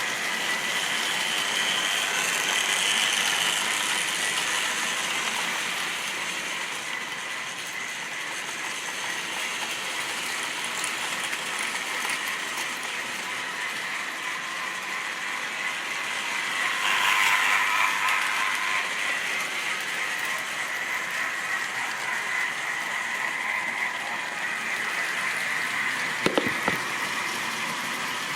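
Model railway train running on the track: a steady whirring of the small motor and gears with a faint whine, swelling louder about two-thirds of the way through as it comes closer, and a few sharp clicks of the wheels over rail joints near the end.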